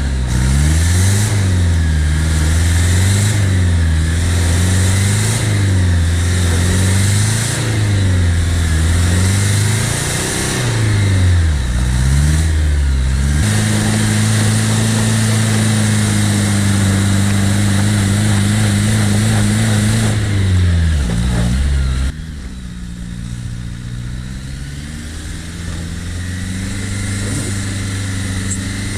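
Off-road 4x4's engine revving up and down in waves every two seconds or so, then held at high revs for several seconds before the revs fall away. Over the last few seconds the engine runs on more quietly.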